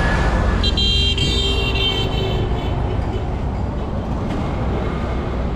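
Street traffic rumbling steadily, with a high-pitched vehicle horn sounding about a second in and holding for about a second and a half.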